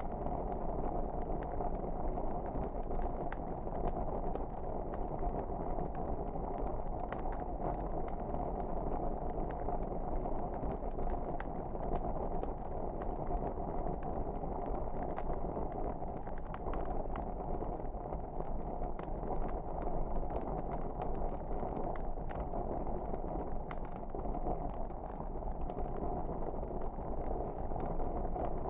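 Wood fire burning in a fireplace: a steady low rush of flame with frequent small crackles and pops throughout.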